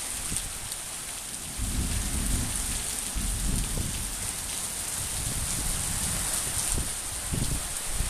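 Heavy rain falling steadily in an even hiss. A low rumble sets in about one and a half seconds in and carries on under it.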